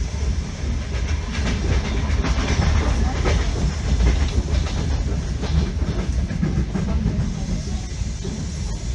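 Passenger train running along the track: the wheels clack over rail joints above a steady low rumble.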